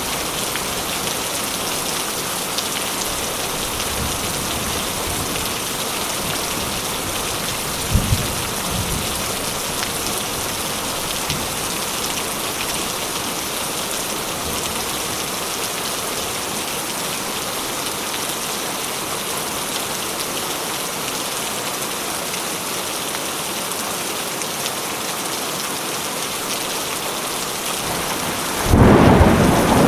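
Steady rain falling on a surface, with a brief low thud about eight seconds in. Near the end a loud rumble of thunder breaks in suddenly.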